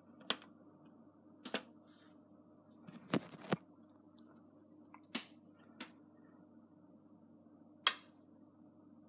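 Beko WM74165W washing machine running early in its cycle with a low steady hum, broken by about seven sharp clicks and knocks at uneven intervals, the loudest near the end.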